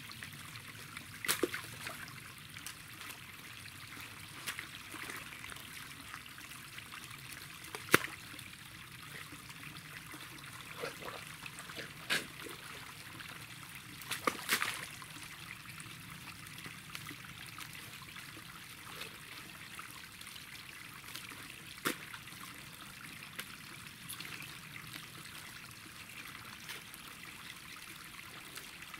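Water trickling steadily where it leaks through an earth dam, with a few sharp knocks over it, the loudest about eight seconds in.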